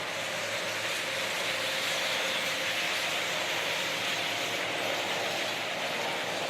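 A huge flock of birds making a steady, even din of massed calls and wings, a noise that sounds like wind or rain.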